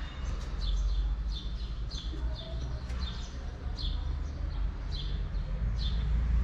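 Small birds chirping over and over, short high falling chirps about twice a second, over a steady low rumble.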